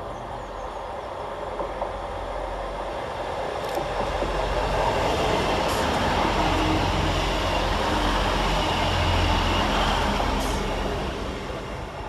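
Class 158 diesel multiple unit arriving at a station platform: diesel engine rumble and wheel noise swell as the train draws past, then die away near the end as it slows. There are a few faint clicks along the way.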